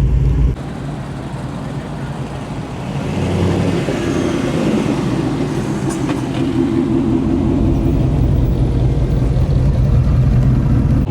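A car's engine running as it drives in at low speed. A sudden drop in level comes about half a second in, and the engine grows louder again about three seconds in.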